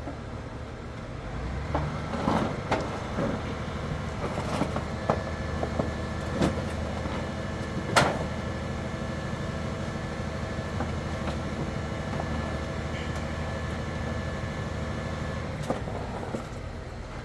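A machine running steadily, starting about a second and a half in and stopping near the end, with scattered knocks and clanks and one sharp click partway through.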